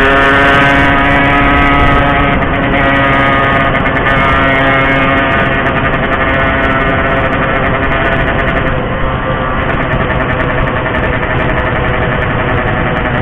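Two-stroke single-cylinder engine of a Yamaha RX-King motorcycle running hard under way, its pitch held high and then sagging slowly as the throttle eases, then carrying on at a steady drone.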